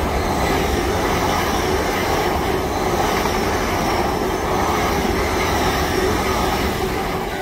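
LNER Azuma (Hitachi) express train passing close by at speed: a loud, steady rush of train noise that cuts off near the end.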